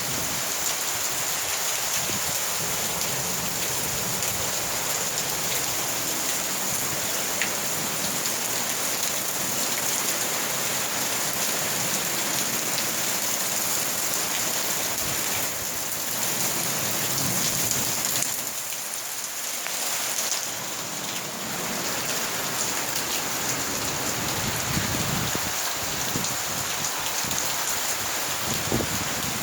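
Monsoon downpour: heavy rain falling steadily on the ground and surfaces, with a few low rumbles now and then.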